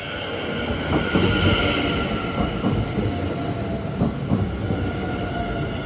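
Dutch electric passenger trains passing at speed, growing loud over the first second, with a steady rolling rumble and whine. The wheels knock sharply over rail joints several times.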